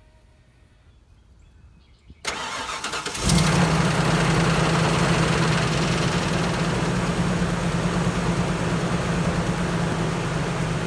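Pickup truck's gasoline engine started for its first run after an oil change: the starter cranks for about a second, the engine catches about three seconds in and settles into a steady idle.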